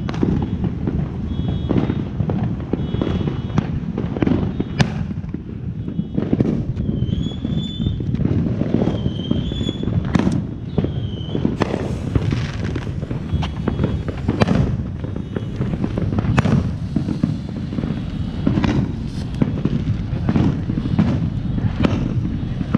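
Fireworks going off: a constant low rumble broken by frequent sharp bangs and pops, with three short whistles near the middle. A TNT Diamond Cutter ground fountain is spraying sparks in the second half.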